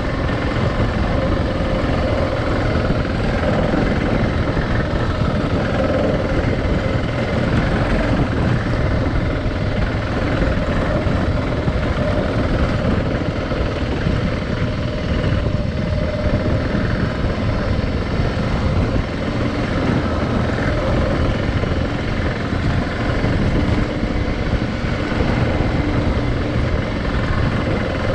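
Adventure motorcycle riding along, its engine running steadily under way with a constant rush of wind and road noise on the microphone.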